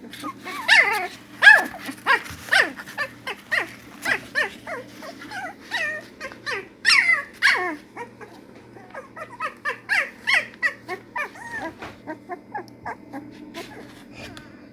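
Dogs whining and yelping: a rapid string of short high-pitched calls, each falling in pitch, that thins out after about twelve seconds.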